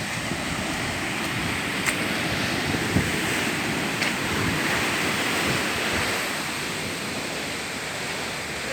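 A steady rushing noise with a few faint clicks, easing slightly toward the end.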